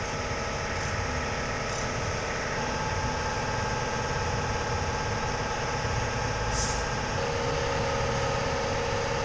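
BMW E36 328ti with a custom exhaust, its engine running at a steady idle.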